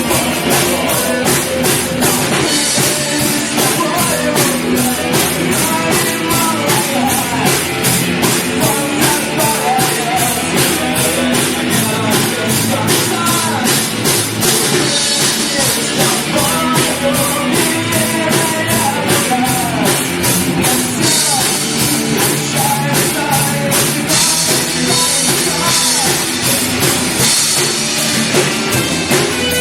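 Rock band playing live, the drum kit keeping a fast, steady beat under the other instruments.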